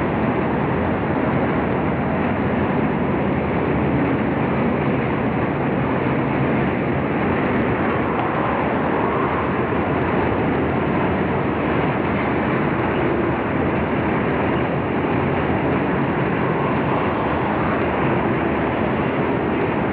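Freight train of car-carrier wagons rolling past, a steady rumble of wheels on rails that holds even throughout.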